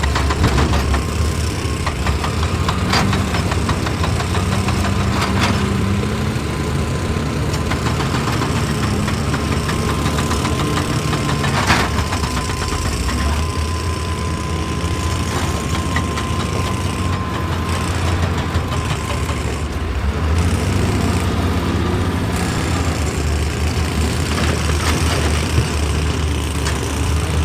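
Excavator's diesel engine running steadily, with a few sharp knocks of metal on rock.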